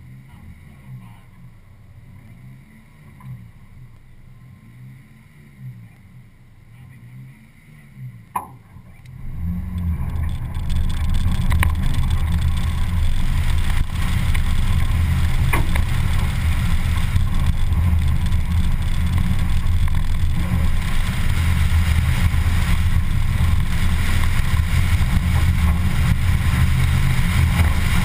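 Car engine idling at the start line, then the car launches about nine seconds in and the engine runs hard and loud under heavy throttle across the grass-and-dirt course, heard from the hood with wind rushing over the microphone.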